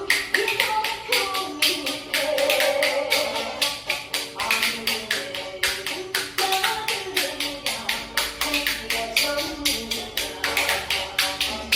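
Spoons clacked together in a fast, steady rhythm as percussion over a trot backing track with a melody line.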